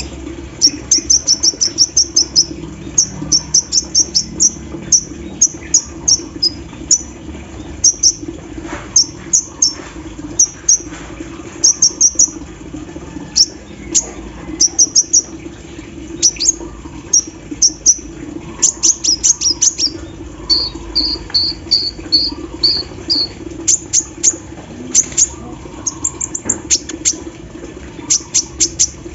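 Brown-throated sunbird (kolibri ninja) singing: rapid runs of sharp, very high chips in bursts, with a run of lower, evenly spaced notes about twenty seconds in. A steady low hum runs underneath.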